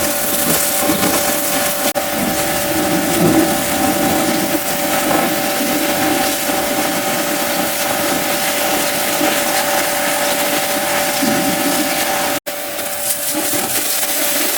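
Pressure washer running and spraying: a steady, loud hiss of the water jet over the motor's even whine, with a brief break about twelve seconds in.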